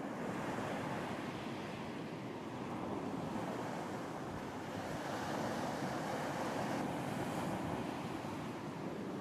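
Ocean waves washing onto a beach in a continuous surf wash that swells and eases gently, with some wind.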